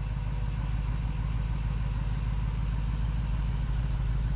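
Steady low engine rumble with a fast, even pulse, like a vehicle engine idling.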